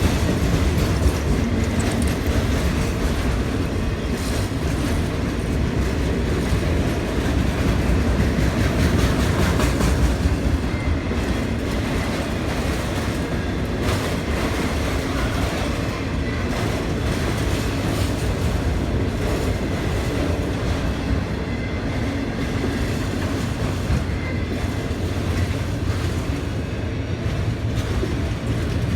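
Long CSX autorack freight train rolling steadily past: a constant heavy rumble of freight cars, with the wheels clicking now and then over rail joints.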